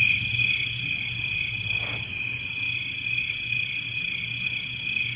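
Steady, unbroken cricket chirring, like a night-ambience sound effect, with a faint low hum underneath.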